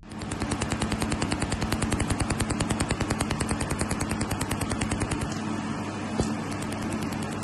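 ORLaser LRS EVO 160W laser welding machine running: a fast, even clicking, about ten clicks a second, over a steady hum. The clicks weaken after about five seconds.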